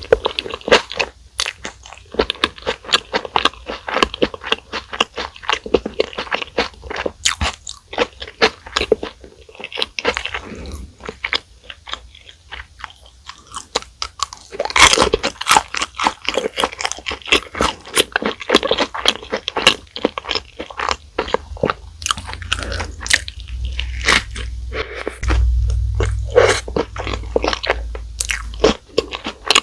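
Close-miked crunching and chewing of fast food: dense crisp crunches from bites, mixed with chewing, loudest around the middle. A low rumble sits underneath for several seconds near the end.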